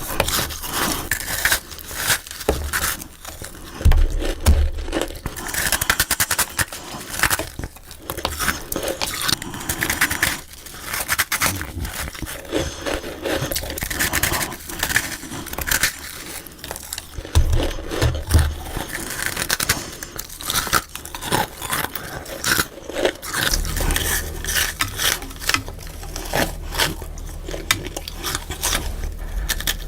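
Freezer frost being bitten and chewed close to the microphone: a dense run of crackling, crunchy bites with scraping, sped up faster than real time.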